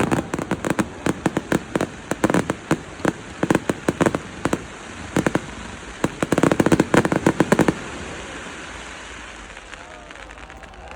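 Fireworks display: a rapid series of sharp bangs and pops from many firework bursts, in dense clusters, dying away about eight seconds in.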